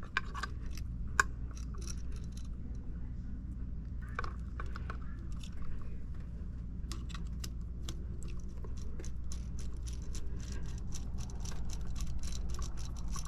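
Many small, irregular metal clicks and scrapes from a screwdriver and copper wire on a wall outlet's terminal screw, as the neutral wire is looped under the screw and tightened, over a steady low hum.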